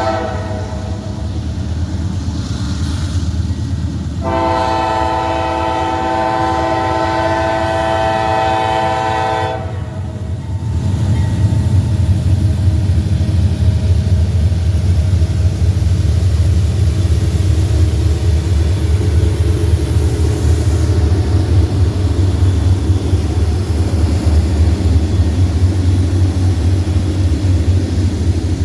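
Diesel locomotive air horn: the tail of one blast just after the start, then one long steady blast of about five seconds. About ten seconds in, the heavy low rumble of the passing train takes over and stays loud.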